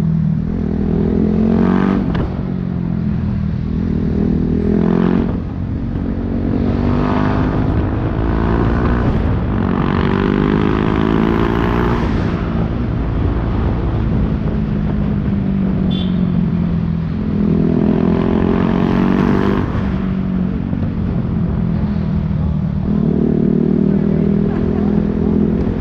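BMW G 310 R's single-cylinder engine through an Akrapovic racing exhaust, heard from the pillion as the bike rides in traffic. It pulls up in pitch through the gears several times, with steadier, lower stretches in between.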